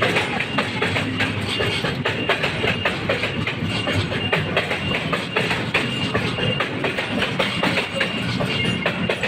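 Freight train rolling along the track: a steady rumble with many rapid clicks and clatter from the wagons, with background music over it.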